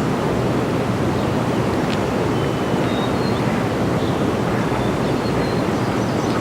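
Steady rushing outdoor noise, even in level throughout, with a few faint short high chirps over it.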